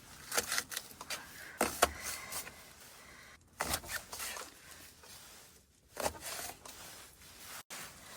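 Cooking gear and food packaging being handled for camp cooking: short clusters of clicks, knocks and rustling, four bursts with quieter gaps between.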